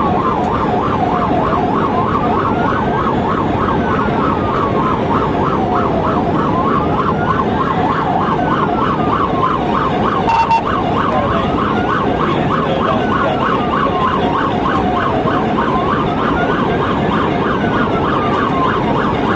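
Police siren sounding during a pursuit: a slow wail rising and falling about every four and a half seconds layered with a fast warbling yelp, over steady road and engine noise. A short beep about ten seconds in.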